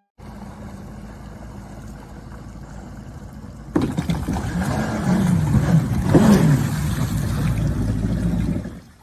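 Motorboat engine running on the water, louder from about four seconds in, its pitch wavering up and down, then cutting off near the end.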